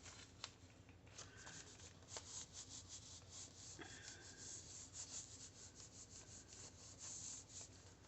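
Paper being rubbed by hand in quick repeated strokes, several a second, with a single tick just before they start.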